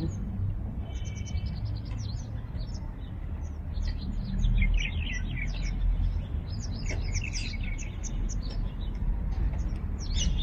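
Small birds chirping, with quick clusters of short, high twittering notes coming and going. A steady low rumble runs underneath.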